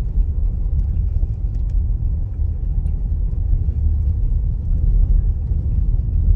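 Car driving on a snow-covered road, a steady low rumble of road and engine noise heard from inside the cabin.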